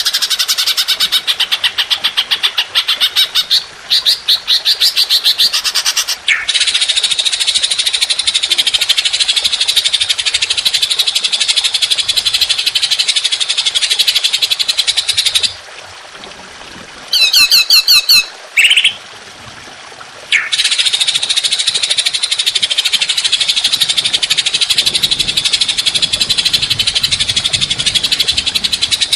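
Songbird masteran recording: a loud, harsh, rapid chattering bird song in long unbroken bouts, the rough 'long shots' used to train cage songbirds. Near the middle the chatter stops for a few seconds and a short, clear whistled trill sounds, then the harsh chattering resumes.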